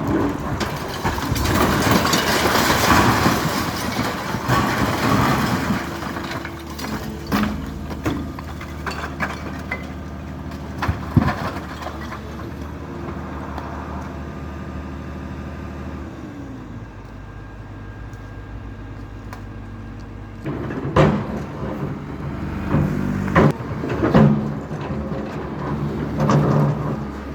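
Engine of heavy demolition machinery running, its pitch shifting and dropping about two-thirds of the way through. Over it, rubble crunches for several seconds near the start, and there are sharp knocks and bangs of debris later on.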